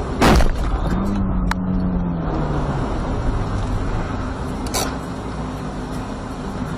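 Car in motion heard from inside the cabin, with a steady low road and engine noise. A single loud thump about a third of a second in, then a slightly falling tone lasting about two seconds.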